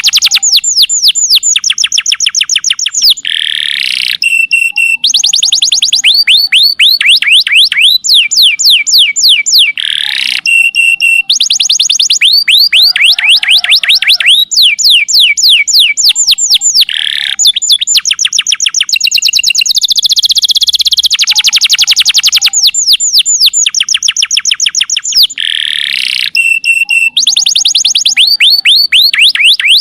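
Domestic canary singing loudly. It runs rapid trills of quick falling notes, broken by short buzzy and whistled phrases, and the same song pattern repeats again and again.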